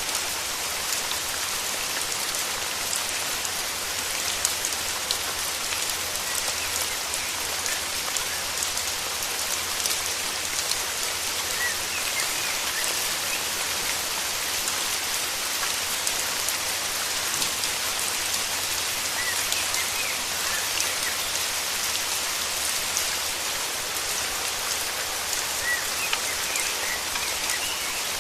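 Steady rainforest rain falling, with individual drops ticking close by throughout. A few faint, high bird chirps come through the rain about twelve seconds in, around twenty seconds and again near the end.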